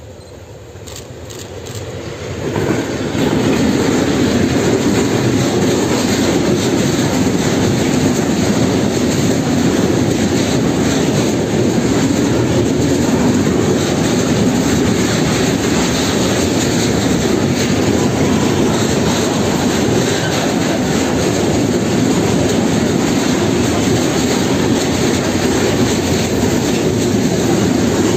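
Electric-hauled freight train of tank wagons passing close by, its wheels rumbling on the rails. It grows louder over the first three seconds as the locomotive approaches, then holds steady as the wagons roll past.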